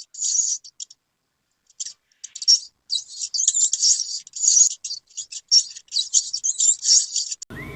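Small birds chirping in quick, dense runs of high calls, with a brief pause about a second in. Near the end a sustained, wavering whistle-like tone cuts in.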